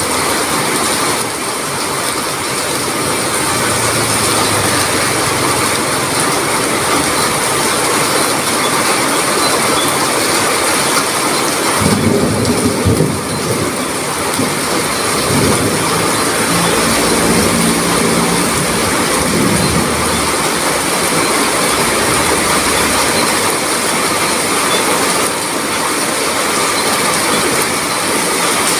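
Heavy rain pouring down in a loud, steady hiss. A low rumble rises about twelve seconds in and lasts several seconds.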